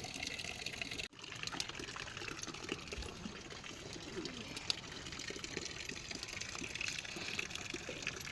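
Steady monsoon rain and running water: an even rushing hiss that briefly cuts out about a second in.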